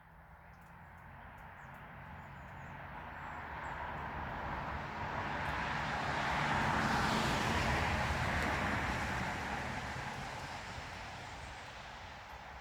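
A vehicle passing by: a rushing, rumbling sound that grows louder to a peak about seven seconds in, then fades away.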